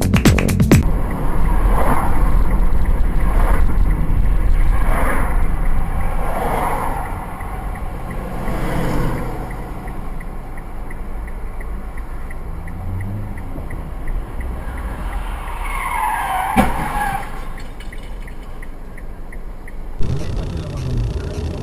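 Car road and engine noise picked up by a dashcam, with several short tyre squeals early on and a sharp knock with a squeal about sixteen seconds in. The sound changes abruptly near the end.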